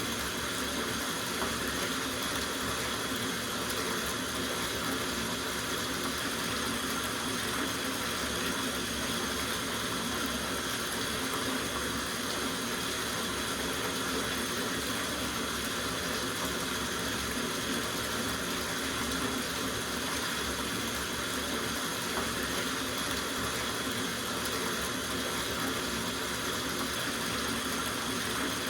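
Water running from a tap into a soaking bathtub, a steady even rush with no change.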